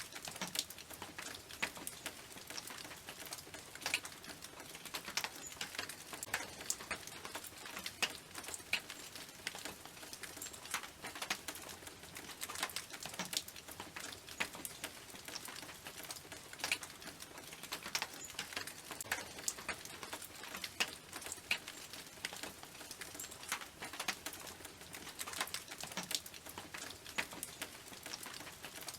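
Rain falling on a tin roof: a steady patter of dense, irregular drop ticks on the metal over a light hiss.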